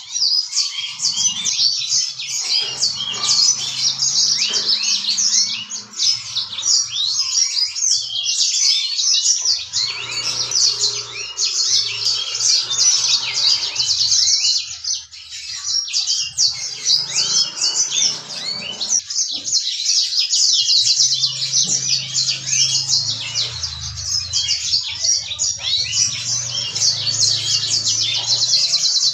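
Yellow-fronted canary (Mozambique canary) singing nonstop in a fast, high-pitched stream of chirps and trills, with only brief lulls about six and fifteen seconds in.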